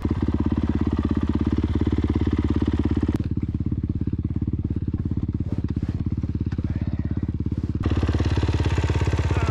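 Dirt bike engine idling with an even, rapid beat, freshly started. Its sound turns duller about three seconds in and brightens again near the end.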